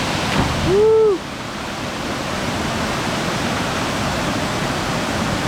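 Steady rushing of a waterfall, with a short hooting yell from a person, rising then falling in pitch, about a second in.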